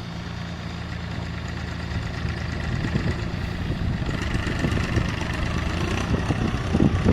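Force Abhiman mini tractor's diesel engine running steadily, gradually growing louder, with a higher whine joining about four seconds in.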